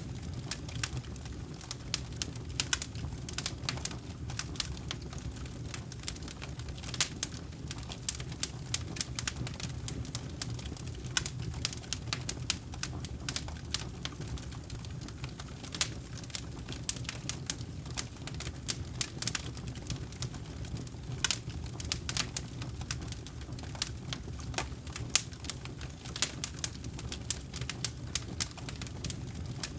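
Wood campfire crackling: many sharp, irregular pops and snaps from the burning logs over a steady low rumble of the flames.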